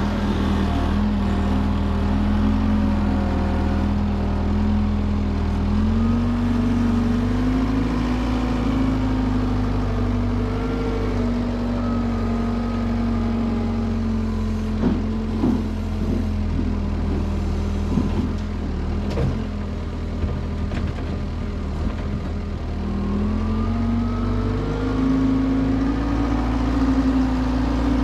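John Deere 325G compact track loader's diesel engine working under load, its pitch sagging and climbing as the load and throttle change. A few short knocks and clanks come in the middle.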